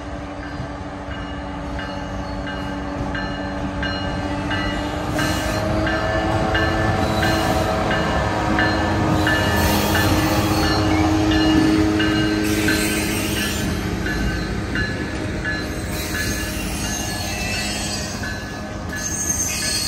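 Richmond Pacific Railroad diesel switcher locomotives pulling a freight train of tank cars past at low speed: the diesel engines run with a steady drone, growing louder to a peak about halfway through as they come alongside, while a high ringing strike repeats about once a second.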